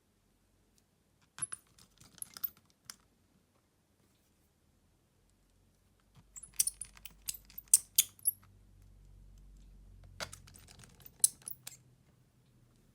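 Small clicks and taps from phone parts and small repair tools being handled during a smartphone disassembly. They come in three short clusters with pauses between.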